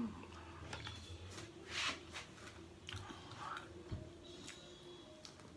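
Close-up chewing and biting of pizza, with soft mouth clicks and smacks and a louder smack about two seconds in.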